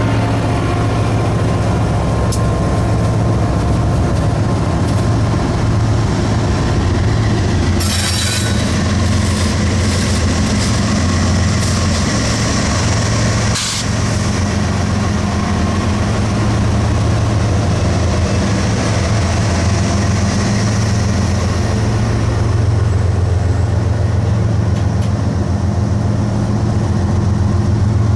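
Freight train rolling past close by: a steady heavy rumble of the wheels on the rails. A short high hiss or squeal comes about eight seconds in, and a sharp click a few seconds later.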